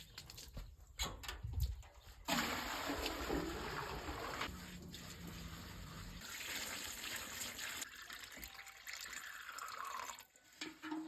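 Water running into a tank as it is filled, starting suddenly about two seconds in and stopping shortly before the end. A few clicks and knocks come before it.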